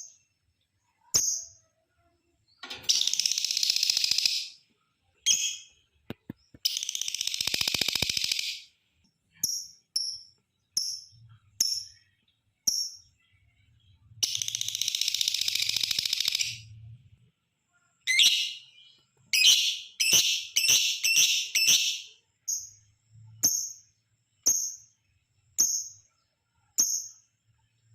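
Lovebird calling: short, sharp, high chirps repeated about once a second, broken by three long chattering trills of about two seconds each (the 'ngekek'). About two thirds of the way through comes a quick run of harsh calls.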